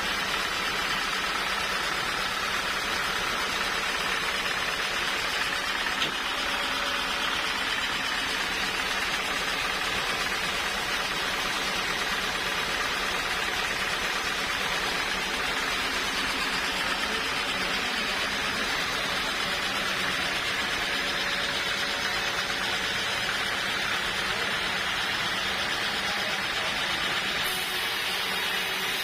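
Sawmill saw machinery running with a steady, even noise that neither stops nor changes.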